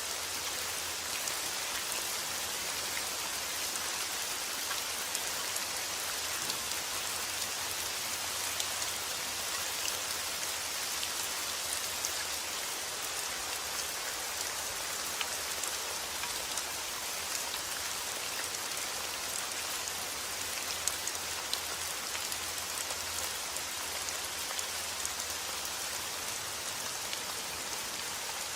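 Steady rain: a dense, even hiss of falling rain with many small drop ticks scattered through it.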